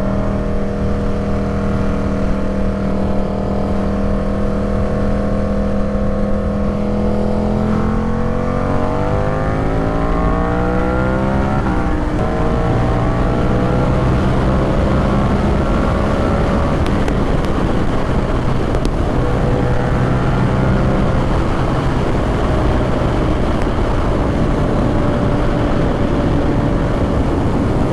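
Ducati Supersport 950 S's 937 cc L-twin engine through an aftermarket exhaust, heard from the bike while riding: it holds a steady note for several seconds, then revs climb from about eight seconds in, break briefly near twelve seconds as it shifts up, and climb again before settling into cruising with wind noise.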